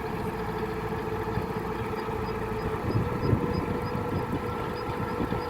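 Kubota DC-105X combine harvester's diesel engine and machinery running steadily, a dense rumble with a constant hum.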